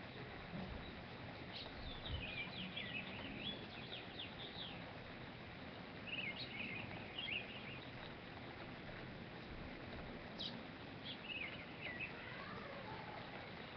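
Songbirds singing: three short bursts of quick chirping notes, with a falling note near the end, over a steady background hiss.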